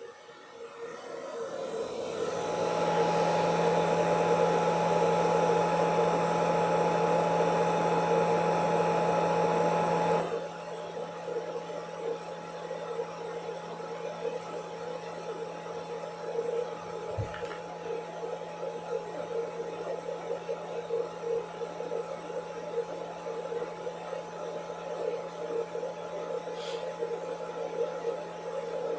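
Electric hair dryer running: it spins up over the first couple of seconds, runs loud and steady, then drops abruptly to a quieter steady hum about ten seconds in, as if switched to a lower setting.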